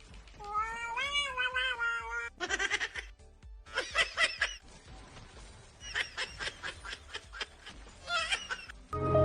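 A cat meowing: one long meow that rises and falls, starting about half a second in, then a string of shorter, harsher cries and yowls. Music starts near the end.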